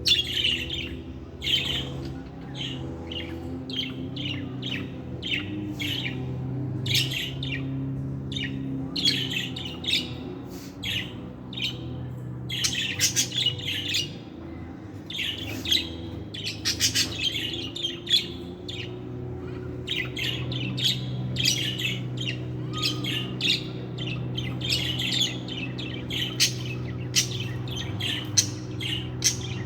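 Budgerigars chirping and chattering in quick, continuous runs of short high calls, over a steady low hum.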